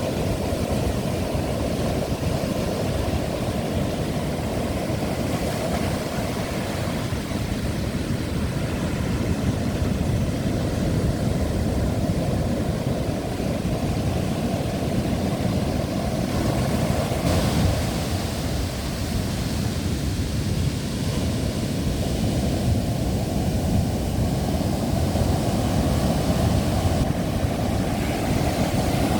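Strong wind buffeting the microphone over the steady rush of big ocean surf, with no break.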